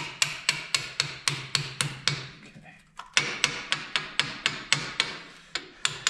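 Quick, light hammer taps, about five a second, with a short pause partway through, working a part loose during crankshaft removal from a Minneapolis-Moline ZA tractor engine.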